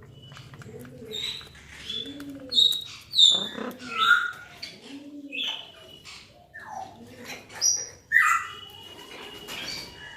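Pet birds calling together: low cooing calls repeat about once a second under sharp, high chirps and squawks, the loudest about three seconds in and again near the end.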